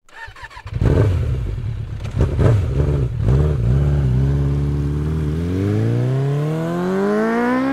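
Motorcycle engine revving in two short blips, settling to a steady note, then climbing smoothly in pitch under acceleration over the last couple of seconds, ending abruptly.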